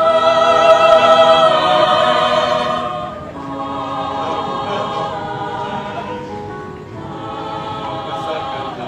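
Mixed church choir singing sustained chords in harmony: a loud chord enters at the start and is held for about three seconds, then the singing drops to softer held phrases.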